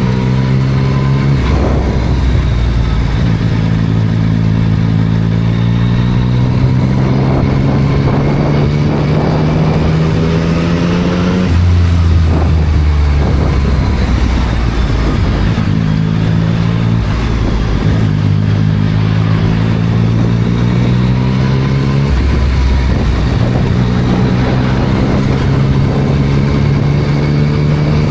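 2024 Yamaha MT-09 SP's 890 cc inline-three with a Spark full exhaust under way, the engine note climbing slowly in pitch, dropping suddenly about twelve seconds in, climbing again, then dropping once more about six seconds before the end. A steady hiss of wind and road runs underneath.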